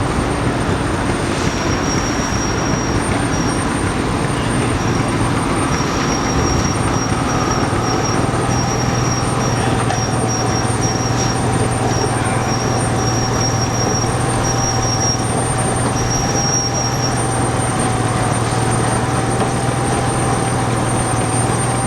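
An old tractor's engine running steadily as it drives past, a constant low hum with no change in pace.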